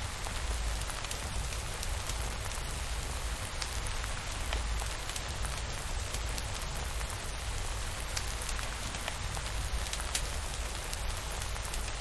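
Steady rain with a constant hiss and scattered sharp drop ticks over a low, even rumble.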